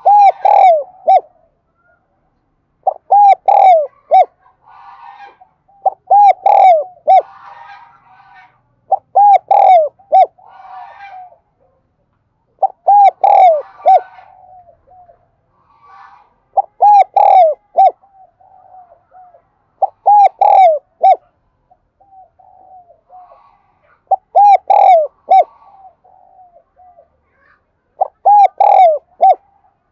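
Spotted dove singing its cooing song: about nine loud phrases of three or four short coos, repeated every three to four seconds, with fainter coos between them. It is a calling song of the kind played to lure wild spotted doves in.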